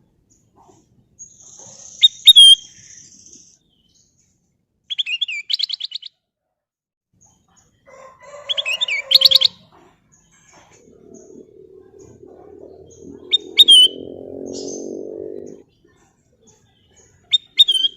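Kutilang emas bulbul singing in short bursts of clear, quick whistled notes, about five phrases spaced a few seconds apart, the loudest being a rapid run of notes about halfway through. A lower droning sound rises for about four seconds in the second half.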